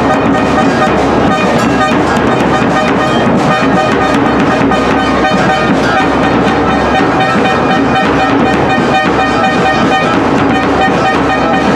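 Football supporters' groups in the stands keeping up a loud, continuous din of blown horns with many quick drum-like hits under the held tones.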